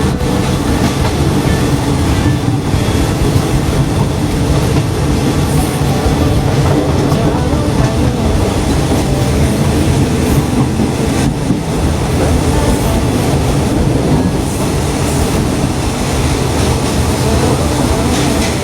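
State Railway of Thailand passenger train running along the rails: a steady, even rumble of wheels and carriage.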